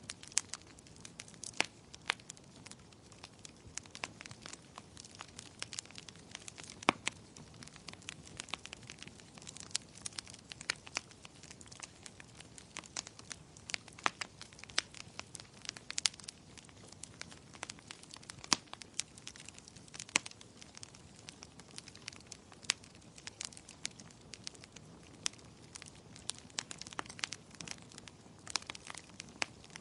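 Wood fire in a fireplace crackling and popping: frequent irregular sharp pops and snaps over a soft steady hiss.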